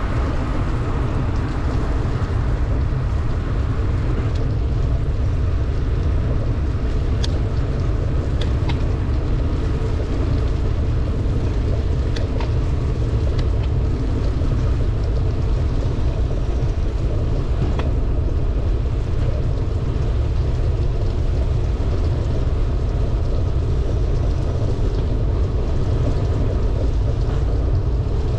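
Steady low wind rumble on the microphone of a bicycle riding downhill in pouring rain, under a hiss of rain and wet road, with a few sharp ticks.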